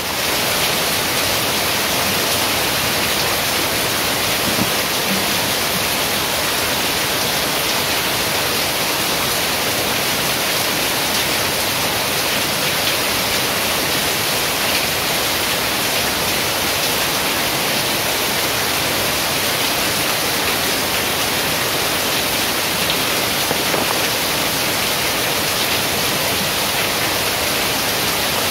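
Heavy rain falling steadily on leaves and a corrugated roof: a dense, even hiss that holds without a break.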